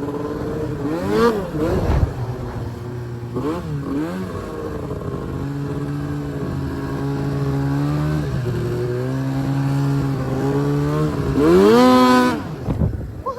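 Arctic Cat M1000 snowmobile's two-stroke engine under throttle: a couple of quick revs up and down, a steadier run, then a hard rev near the end that falls away.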